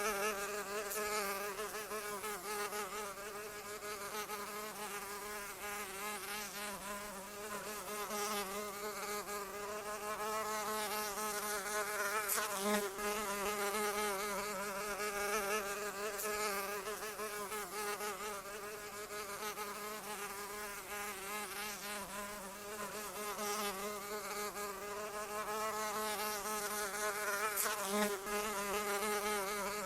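A flying insect's wings buzzing without a break, a steady pitched drone that wavers slightly in pitch. It swells briefly twice, a little before halfway and near the end, as if passing closer.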